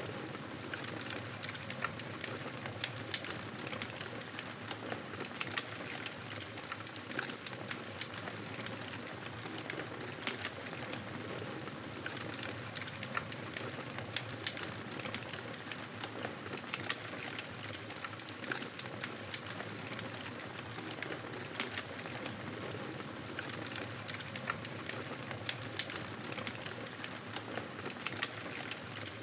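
Fire in a fireplace crackling: a steady hiss of flames with frequent small, sharp, irregular pops and snaps.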